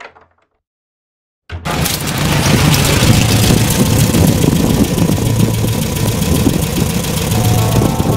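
Air-cooled Volkswagen Beetle flat-four engine idling, loud and steady, cutting in abruptly about a second and a half in.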